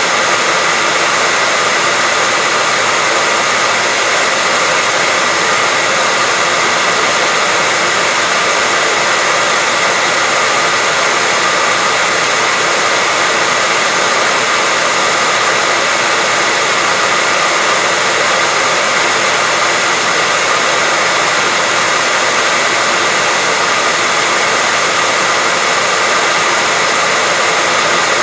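Electric hair dryer running continuously: a loud, unchanging whooshing with a faint steady whine.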